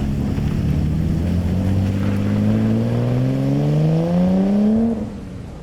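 Car engine accelerating hard, its pitch climbing steadily for about three seconds over a windy rumble, then cutting off suddenly near the end.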